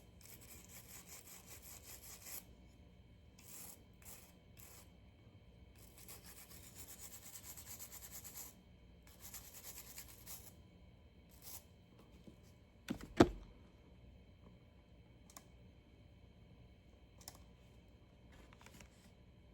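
A screw being turned into a knife sharpener's housing with a screwdriver: faint scratchy grinding in three spells of a few seconds each, with short scrapes between. One sharp knock about 13 seconds in is the loudest sound.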